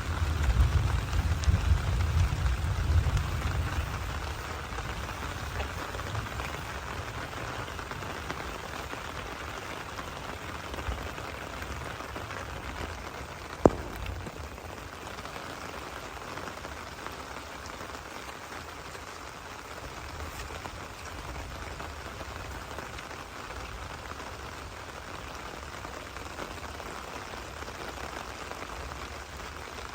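Steady rain falling, an even patter throughout. A low rumble fades out over the first few seconds, and a single sharp click sounds about halfway through.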